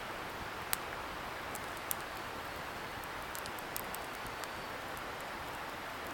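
Wood bonfire crackling, with sharp pops from the burning firewood, twice near the start and a quick cluster around the middle, over the steady hiss of a distant river.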